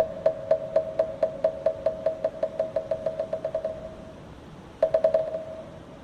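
Moktak, a Korean Buddhist wooden fish, struck in a roll that speeds up steadily and dies away. After a short pause comes a quick flurry of four or five strikes.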